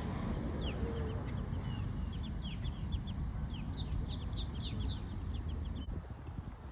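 A group of waterbirds crowding close, calling with many short, high, falling chirps that overlap quickly, over a steady low rumble.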